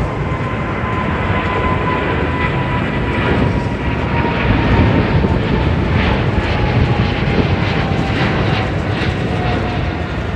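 Boeing 777-300 jet engines running at high power: a steady loud roar with a whining tone that slowly falls in pitch.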